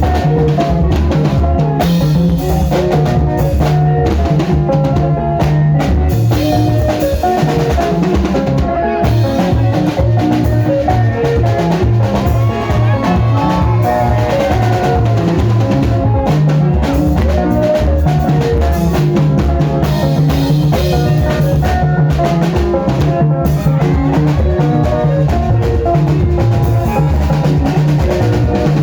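Sungura band playing an instrumental passage: busy guitar note patterns over a steady bass line and a drum kit, with no singing.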